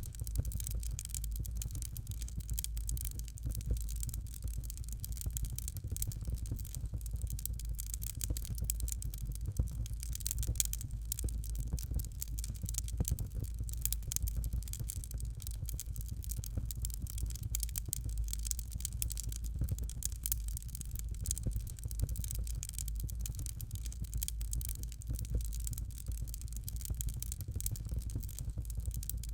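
Fire crackling in a fireplace: a dense, continuous stream of small pops and snaps over a low steady rumble.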